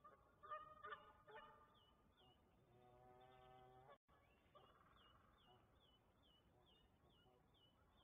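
Wild birds calling: a few loud pitched calls in the first second and a half and a longer held call around three seconds in, over a faint high chirp repeated about twice a second.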